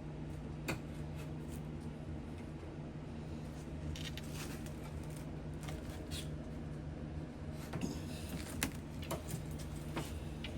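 Scattered small clicks, taps and scrapes of hand work on a door and its hardware, busiest about four seconds in and again near the end, over a steady low hum.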